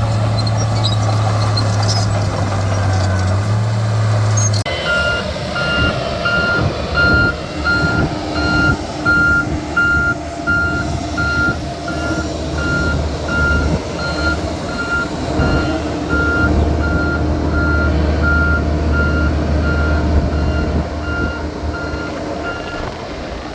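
Heavy earthmoving machine's diesel engine running, and from about five seconds in its reversing alarm beeping steadily, about one and a half beeps a second, until just before the end: the machine is backing up.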